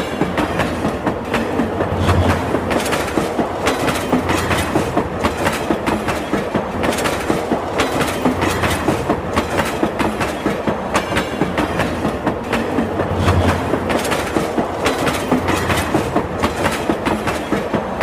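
Passenger train running along the track, its wheels clicking over the rail joints in a steady, quick clickety-clack over a continuous rumble.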